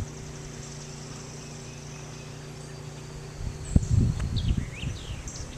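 Outdoor ambience of birds chirping and insects trilling. About three and a half seconds in, loud low rumbling noise hits the microphone and goes on.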